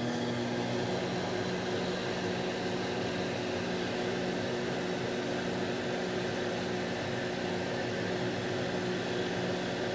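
Microwave oven running with a steady electrical hum and fan noise. There are no crackles or pops from the matches inside.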